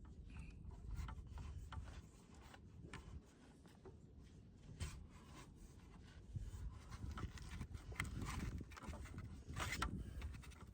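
Scattered knocks, scuffs and rubbing from someone moving about and handling things in a cramped crawl space, over a low rumble.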